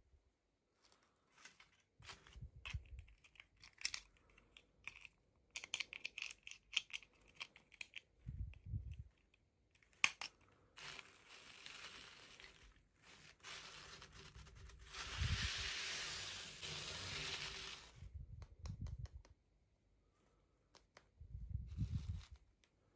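Toy packaging being handled and torn open by hand: scattered clicks and rustles, then a long stretch of crinkling and tearing about halfway through, with soft thumps as pieces are set down.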